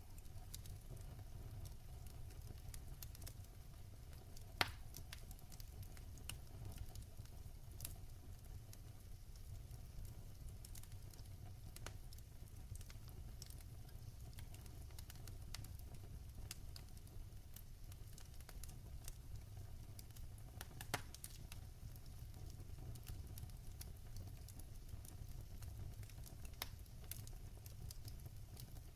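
Wood fire burning in a fireplace: a steady low rumble with scattered sharp crackles and pops, a few louder snaps among them.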